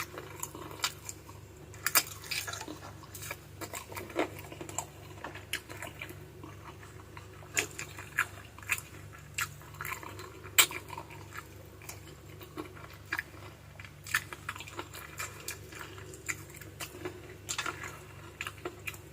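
Close-miked chewing and gnawing on adobo chicken feet: wet smacking with irregular sharp clicks of teeth on cartilage and bone, a few of them much louder than the rest.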